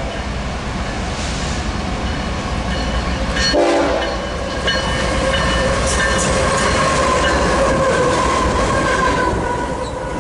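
Two BNSF GE diesel locomotives running light, an ES44AC and an ES44C4, passing with engine rumble and wheels on the rails. A short horn blast sounds about three and a half seconds in, and later a steady tone drops gently in pitch as the locomotives go by.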